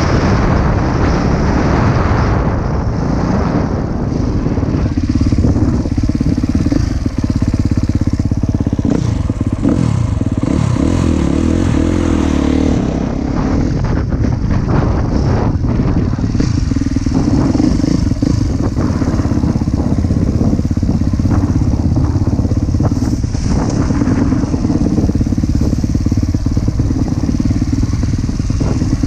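Husqvarna TC 250 motocross bike engine running under throttle while being ridden, its revs rising and falling.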